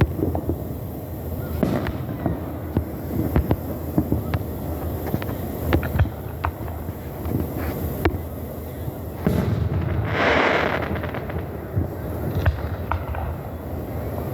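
Fireworks going off: a run of irregular bangs and crackles from aerial shells, with a longer, louder hissing burst about ten seconds in.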